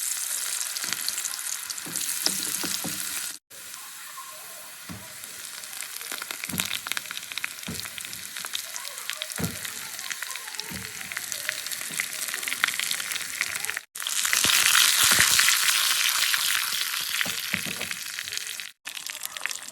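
Food frying in hot oil in a pan: a continuous sizzle with scattered crackles and occasional knocks of a utensil stirring. It is made of several clips joined with abrupt cuts, and the sizzle is loudest in the stretch after the second cut.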